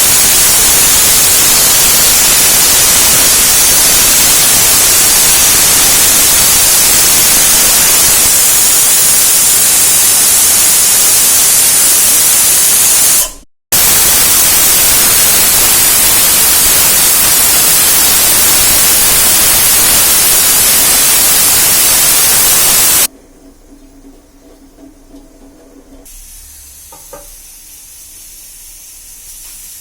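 A loud, steady hiss that briefly drops out about 13 seconds in and stops abruptly about 23 seconds in, leaving a much quieter background.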